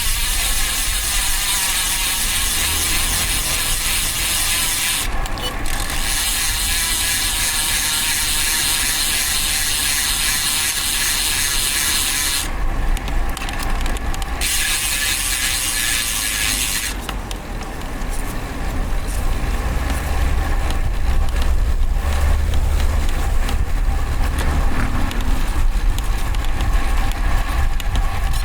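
Road bike's DT Swiss rear hub ratchet freewheel buzzing loudly while coasting. The buzz breaks off briefly twice and stops after about seventeen seconds, leaving a low rumble of wind and road noise.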